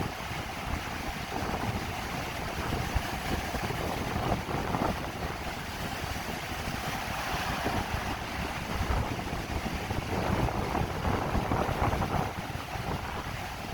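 Wind buffeting the microphone as a rough, gusty low rumble over the steady rushing wash of Lake Superior's waves.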